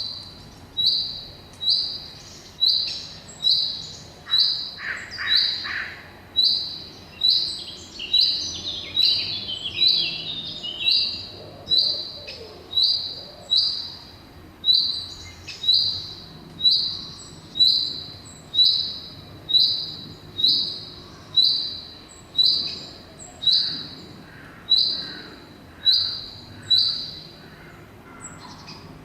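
A bird repeating one short, high call about once a second, with other birds calling around it, among them a brief run of falling notes partway through.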